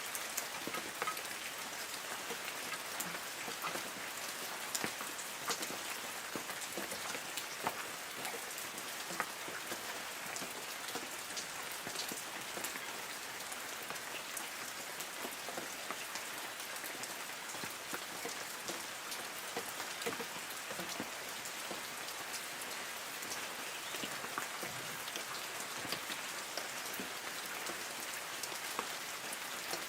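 Light rain falling on forest trees: a steady patter with many separate drops ticking on leaves.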